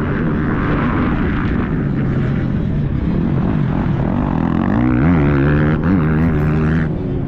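Triumph 250 motocross bike's engine running under riding load, its pitch rising and falling as the throttle opens and closes, loudest with a couple of quick revs about five seconds in.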